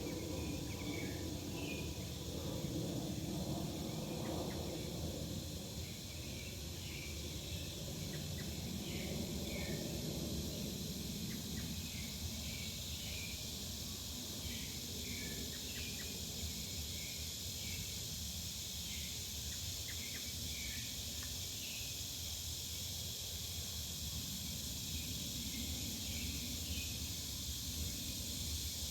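Backyard ambience: a steady high insect drone, frequent short bird chirps, and a low rumble of vehicle traffic that is strongest in roughly the first ten seconds.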